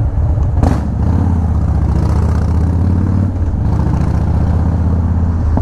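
Harley-Davidson Dyna Street Bob's V-twin engine running steadily on the road, picked up by a helmet-mounted microphone along with wind noise. A sharp click comes less than a second in, and the engine note dips briefly just past the middle.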